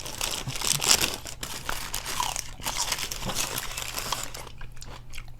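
Close-miked eating of crispy fried chicken wings: crunchy bites and chewing with crackly, crinkling clicks, thinning out near the end.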